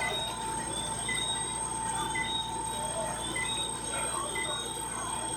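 Night-time insect chorus: steady high droning tones with short chirps about once a second.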